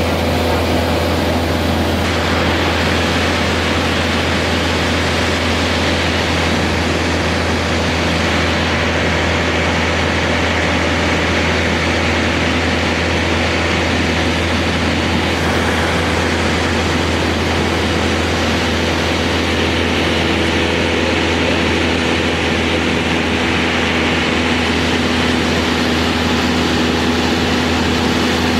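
Steady engine drone heard from inside a vehicle cabin: a loud, constant low hum with a few steady pitched tones above it, unchanging throughout.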